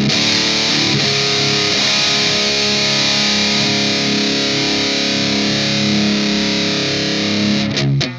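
Distorted electric guitar: a chord change near the start, then a chord left to ring for several seconds, cut off sharply shortly before the end.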